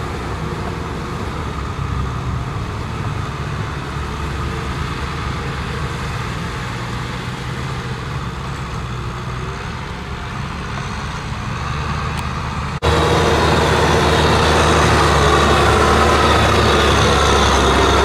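Kubota M6040SU tractor's diesel engine running steadily under work. About two-thirds of the way through the sound cuts abruptly to a louder, closer engine sound.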